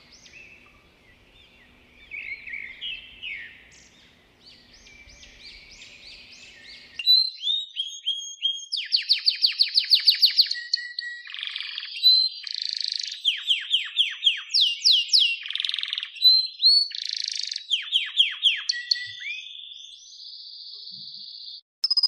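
White-rumped shama (murai batu) singing a varied, clear song: whistled phrases and quick runs of falling notes, louder and cleaner from about seven seconds in, ending in one steady held note.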